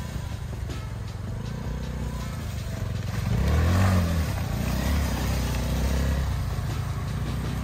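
Off-road vehicle engine running on a trail, revving up about three seconds in and then easing back to a steady run.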